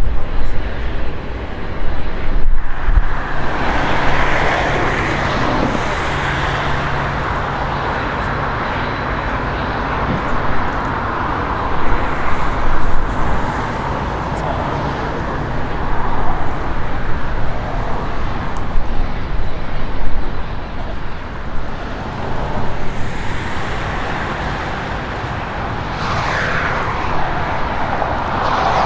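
Steady outdoor rumble of jet aircraft and road traffic near an airport, with gusts of wind buffeting the microphone. Near the end a whine falls in pitch as something passes by.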